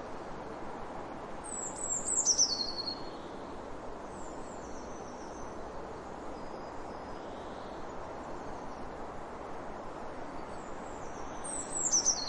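Bird calls: a loud, high call falling in pitch about two seconds in, fainter similar calls around five seconds, and another loud falling call near the end, over a steady background hiss.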